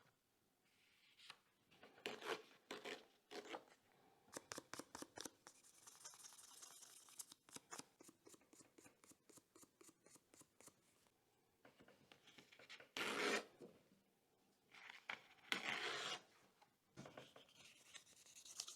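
Fine-grit sandpaper (1500–2000 grit) rubbed by hand over the old wooden handle of a barrel knife, polishing it. It makes quiet, scratchy strokes: a quick run of short rubs a few seconds in, then louder, longer swipes near the end.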